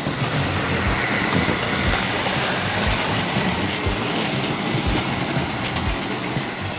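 Model train locomotive running on Tri-ang model railway track, a continuous running rumble with a low thump about once a second.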